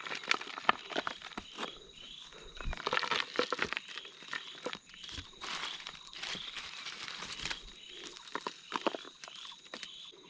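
Dry leaves, sticks and corn being handled, rustling, crackling and crunching in irregular bursts, with a thin steady high tone in the background.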